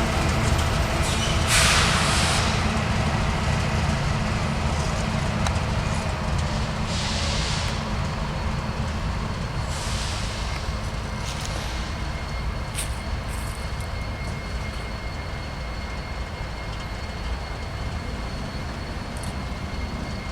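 Empty coal train's cars rolling past with a steady low rumble that slowly fades. Brief hissing bursts come about two, seven and ten seconds in.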